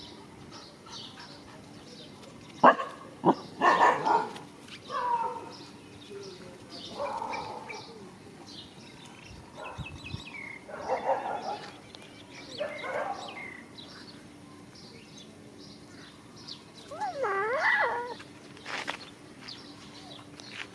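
Dogs barking in sharp, loud outbursts about three seconds in, then in scattered shorter barks, with a wavering whine about 17 seconds in: a dog giving another dog a serious warning.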